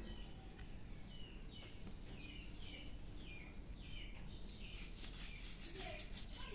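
A bird calling over and over in short falling chirps, about one every half second. A scratchy rustle about two-thirds through.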